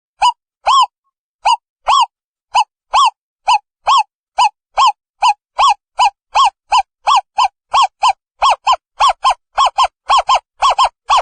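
Owl calling: a long series of short, hoarse notes that speed up steadily, from about two a second to about three a second, with dead silence between them.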